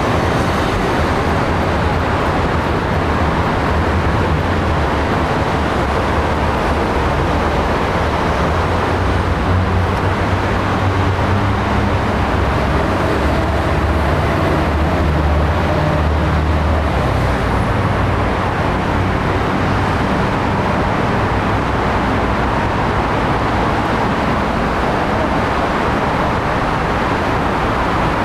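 Steady low engine rumble under a constant wash of outdoor noise, the rumble strongest in the middle and easing near the end.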